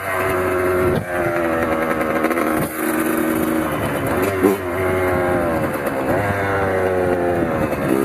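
Kawasaki KX100 two-stroke single-cylinder dirt bike engine running hard under riding, its pitch climbing and falling several times with the throttle. The sound drops off briefly about a second in and again near three seconds in.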